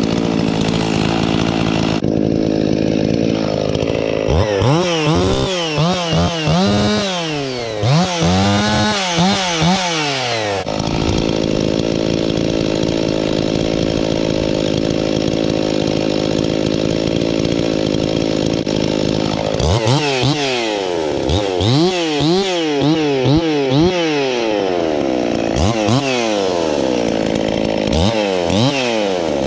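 Husqvarna 51 two-stroke chainsaw, its .325 chain freshly hand-filed, idling and then revved up and down again and again. About eleven seconds in it holds a steady high speed for some eight seconds, then goes back to a string of quick revs.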